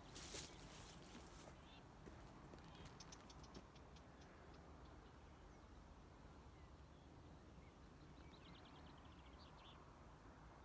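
Faint distant birdsong in farmland: a short run of quick high notes about three seconds in, and a trill of rapidly repeated notes near the end. A brief rustle of wind or handling noise on the microphone comes at the start.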